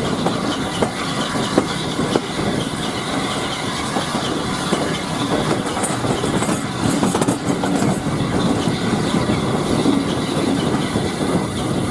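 Passenger coach running along the track, heard from on board: a steady rumble and rattle of wheels on rail, with occasional sharp clicks as the wheels pass over rail joints.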